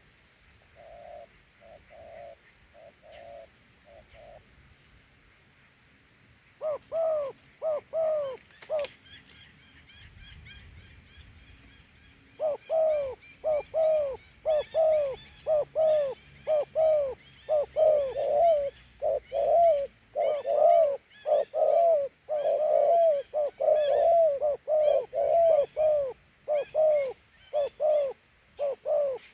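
Male spotted dove of the Vietnamese 'thổ hú' type giving its bowing coo: a few soft notes at first, then from about six seconds in a long, loud series of short, arching coos, about two a second.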